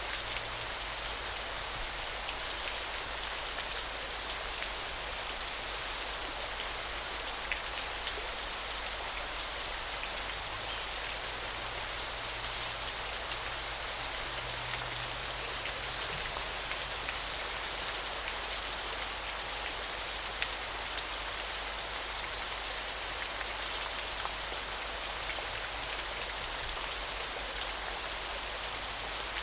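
Steady rush of flowing river water. Over it, a thin high-pitched note pulses on and off about every two seconds.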